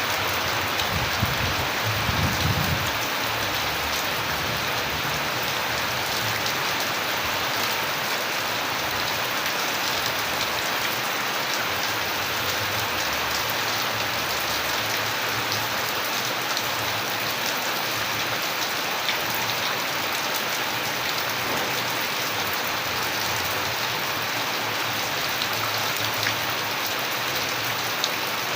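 Steady rain falling, with dense drops pattering on a surface. A brief low rumble sounds about two seconds in.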